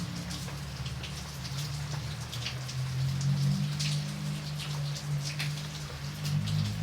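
Rain falling, with separate drops tapping sharply on a nearby surface every fraction of a second, over a steady low drone.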